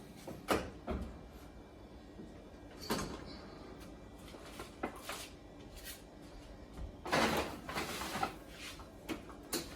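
Oven being loaded: a few scattered knocks and clicks, then a longer clatter and scrape about seven seconds in as a foil pan goes onto the rack and the oven door is handled.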